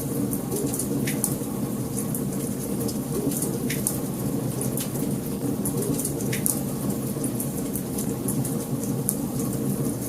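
Fire in a fireplace crackling, with frequent short sharp pops over a steady low rushing of the flames.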